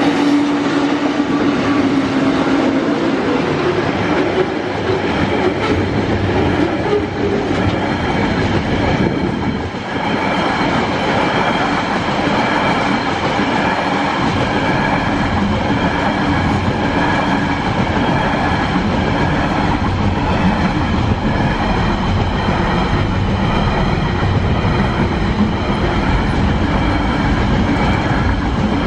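TasRail diesel freight locomotives passing close by, their engine drone fading over the first few seconds. Then a long train of container wagons rolls past with steady wheel-on-rail noise.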